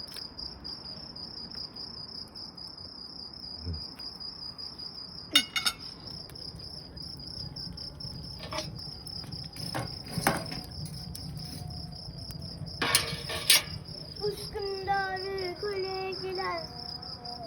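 Crickets chirping in a steady, even pulsing trill, with a few sharp clicks and knocks scattered through the middle and a brief pitched, voice-like sound near the end.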